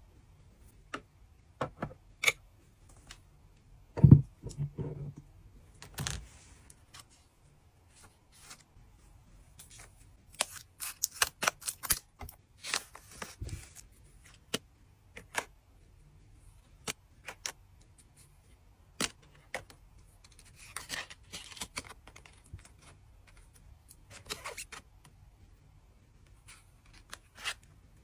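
My Little Pony trading card packs being opened and handled: sharp clicks and taps of cards and packaging, with short bursts of wrapper crinkling and tearing, and one heavier thump about four seconds in.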